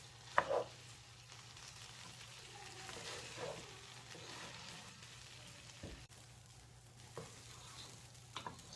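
Rice and lentils sizzling as they fry in a pot for khichuri, with a spoon stirring and knocking against the pot a few times, most loudly just under half a second in. A faint steady low hum runs underneath.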